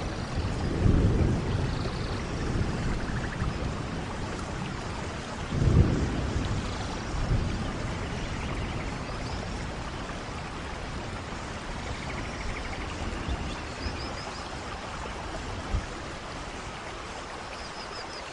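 Steady rain with thunder: a loud low rumble about a second in and another about six seconds in, then steady rain.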